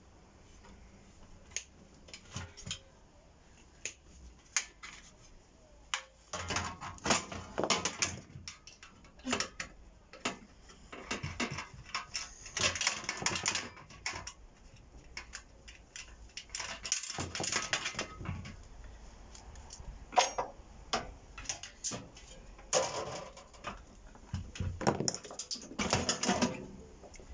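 Clicking and metallic clatter of hand tools and loose metal parts while a microwave oven is being taken apart, in irregular flurries of rapid clicks and rattles with short pauses between.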